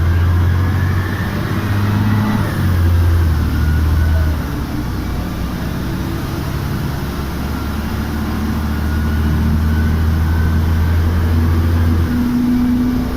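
LiAZ-5256 city bus under way, its engine drone loud and steady, stepping in pitch a few times as the bus speeds up and changes gear, with a faint drivetrain whine above it.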